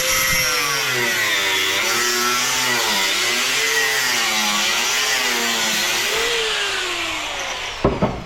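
A handheld electric power tool running hard while cutting scrap, its motor pitch wavering up and down as the load changes. It winds down near the end, with a sharp knock.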